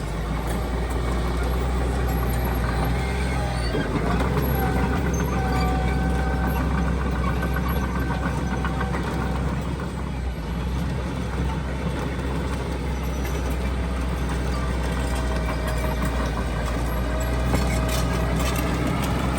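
Diesel engine of heavy earthmoving equipment running steadily under load, with a steady whine above the engine note.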